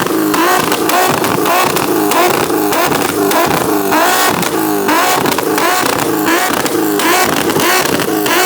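Car engines revving hard, the pitch wavering up and down several times a second.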